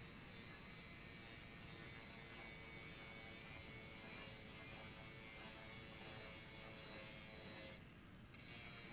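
Angle grinder with a grinding disc sharpening a steel mower blade: a steady high whine with the grind of the disc on the metal. It drops away briefly near the end, then picks up again.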